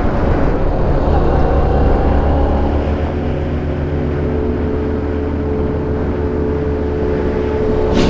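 Motorcycle engine running steadily while riding, with a brief sharp click near the end.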